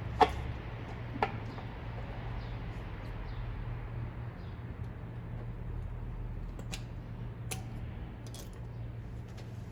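Hand tools clinking against engine parts during engine reassembly: two sharp clicks about a second apart near the start, then a few fainter ticks later, over a steady low hum.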